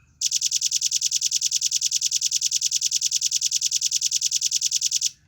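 Velvet-fronted nuthatch (rambatan paruh merah) giving a fast, even, high trill of about ten sharp notes a second, held for nearly five seconds. It ends with one short separate note.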